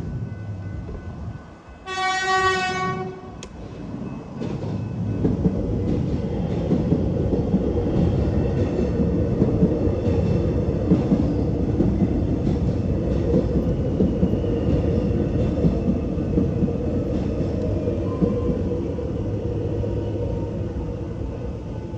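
Train sounds one short horn blast about two seconds in, then runs through the level crossing with a steady rumble of wheels on the rails and scattered clicks.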